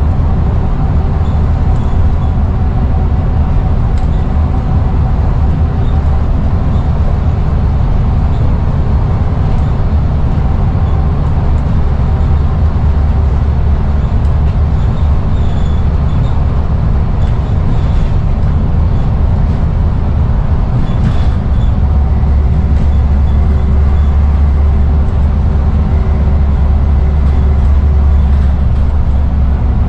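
Scania N94UD double-decker bus's diesel engine and drivetrain running under way, a steady, heavy low drone that grows a little stronger about two-thirds of the way through.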